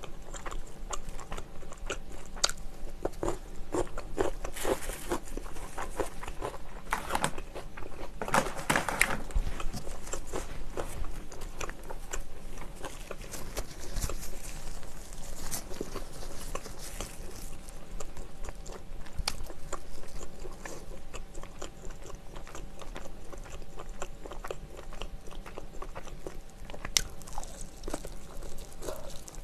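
Close-miked eating sounds of sauced fried chicken: biting and chewing, with many short crackly clicks throughout.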